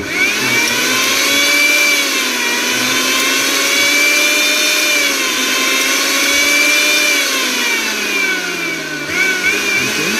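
Panasonic mixer grinder's newly replaced motor switching on and running at speed with a high whine, tested after the motor replacement. The pitch wavers and sags about eight to nine seconds in, then picks back up.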